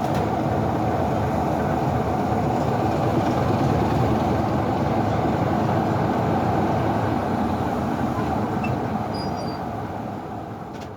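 Train running, a steady rumbling noise that fades away over the last couple of seconds.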